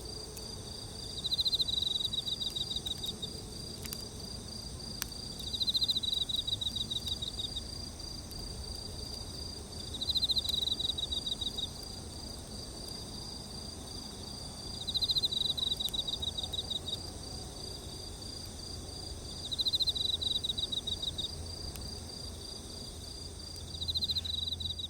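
Insects singing: a steady high-pitched drone, with a pulsed, cricket-like trill that repeats about every four and a half seconds, six times.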